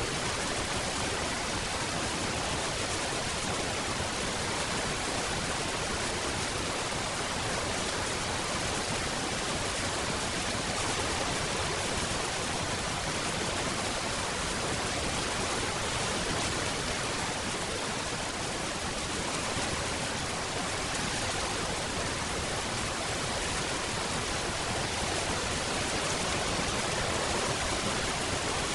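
Steady rain falling: a dense, even hiss without distinct drops or changes.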